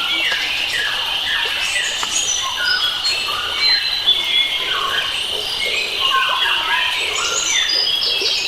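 Many wild birds chirping and calling at once over a steady high insect-like drone, a dense forest dawn-chorus mix of short whistled notes and quick glides.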